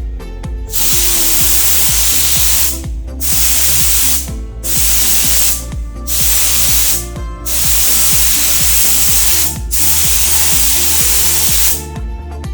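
Paint spray gun hissing in six passes of about one to two seconds each, with short breaks between, over background music with a steady beat.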